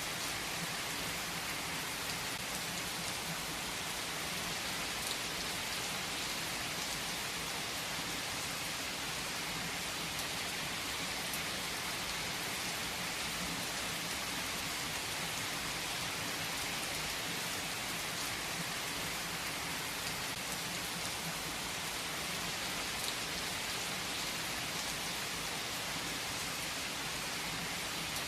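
Steady rain falling and pattering on surfaces, an even hiss with scattered small drop ticks, unchanging throughout.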